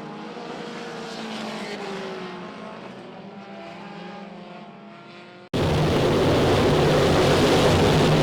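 Dirt track race car engines at a distance, several at once, their pitch rising and falling as they lap. About five and a half seconds in, the sound cuts abruptly to much louder engine noise close by.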